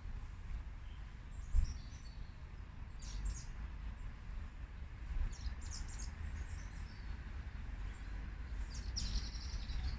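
Small birds chirping in short scattered calls, most around three, five to six and nine seconds in, over a steady low background rumble.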